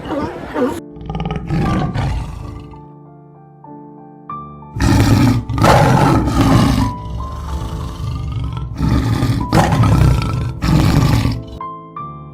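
A large animal roaring in three bouts of loud, rough calls, over background music.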